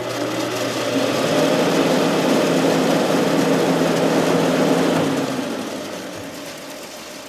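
Sharp window air conditioner's fan motor running on fan only, with a steady hum and fan rush, its open front ball bearing freshly packed with thick oil stabilizer and running quieter. About five seconds in the motor is switched off and the fan winds down.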